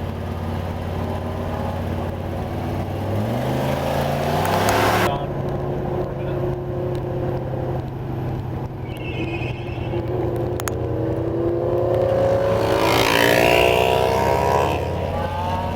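Motor vehicle engine accelerating, its pitch rising twice: a short climb about three seconds in and a longer one from about eight seconds, with a hiss coming in near its peak.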